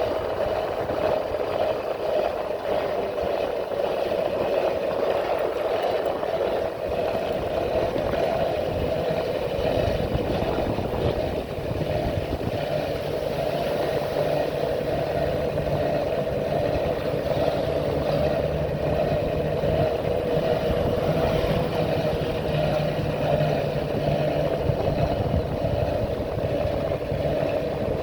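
Motorcycle engine running steadily while riding, with a deeper, steady engine note joining about ten seconds in.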